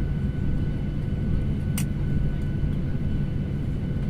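Steady low rumble of a passenger jet's cabin after landing, with faint steady whining tones above it. A single short click about two seconds in.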